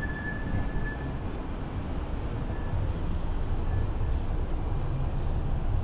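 Steady engine and road noise of a car driving, heard from inside the cabin as a continuous low rumble. A thin high steady tone sounds for the first second.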